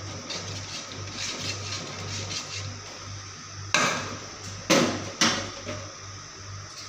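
Three sharp knocks of kitchen utensils, the second and third close together, each ringing briefly, after a run of faint light ticks, over a steady low hum.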